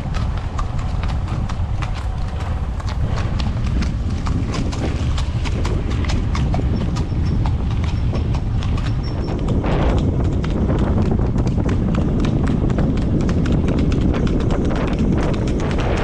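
A horse's hooves clip-clopping as it is ridden, many hoofbeats in close succession over a steady low rumble.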